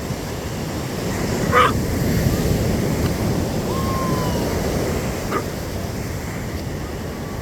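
Ocean surf washing on the beach, with wind rumbling on the microphone and a swell in the surf about two seconds in. A brief sharp high sound about a second and a half in, and a faint short falling tone near the middle.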